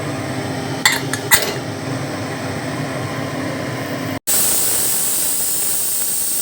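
A few sharp metal clicks as the pressure cooker's lid and whistle weight are fitted, over a steady hum. After a sudden break, the pressure cooker hisses steadily as steam vents under pressure.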